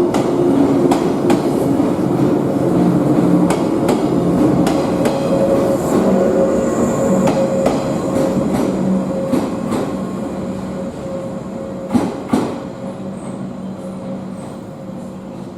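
A train running through the station, wheels clicking over rail joints with a steady pitched hum, the sound fading away over the second half. Two sharp clanks from the wheels on the track about twelve seconds in.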